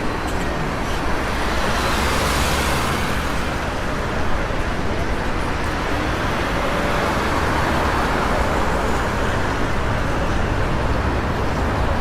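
Steady road traffic noise: a continuous low rumble of vehicles, with a louder hiss swelling and fading about two seconds in.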